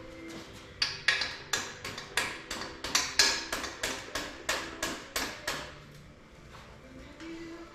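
A series of about seventeen sharp hammer blows, roughly three a second, starting about a second in and stopping a little past halfway, with faint radio music underneath.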